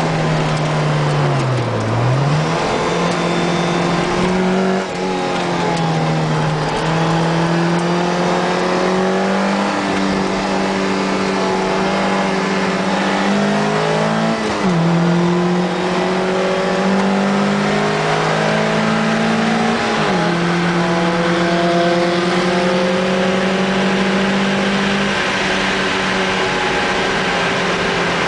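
Car engine at racing speed on a circuit, heard on board a car: it pulls hard with its pitch climbing, then breaks and drops at each gear change or braking point, about 2, 5, 14 and 20 seconds in.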